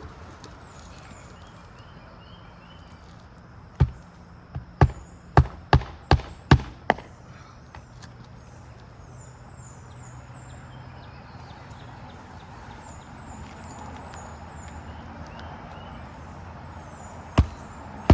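Roofing hatchet (mag hatchet) driving nails into asphalt shingles: a quick run of about eight sharp blows a few seconds in, then another blow near the end.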